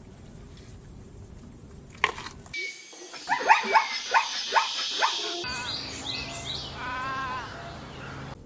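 Animal calls: a quick run of about six short, sharp barking calls, followed by a longer wavering call.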